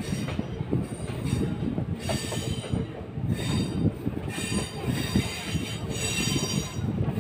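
DEMU passenger train running along the track, heard from the side of a moving coach: a steady rumble of wheels on rail with high-pitched wheel squeal that comes and goes as the train takes a curve.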